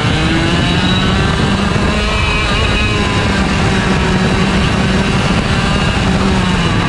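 IAME Leopard 125cc two-stroke kart engine running hard on track, its pitch rising and falling as the revs change.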